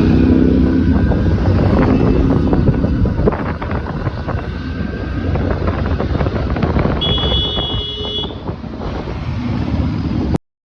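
Motorcycle and road traffic noise with wind buffeting the microphone, a brief high-pitched tone about seven seconds in; the sound cuts off abruptly near the end.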